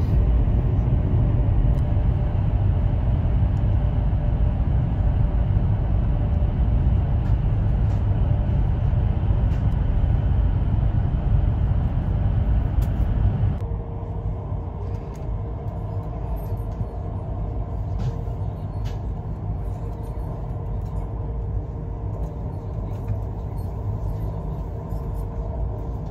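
Steady low rumble and rush of a high-speed bullet train, heard from inside the carriage. A little past the middle the sound cuts to a quieter steady ride noise with a constant faint hum.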